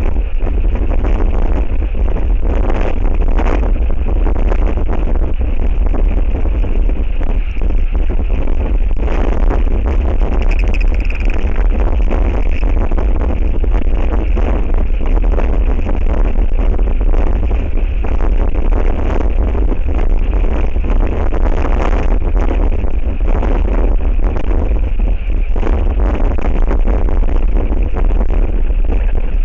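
Strong wind blowing across an outdoor camera microphone: a loud, steady, unbroken noise, heaviest in the deep low end.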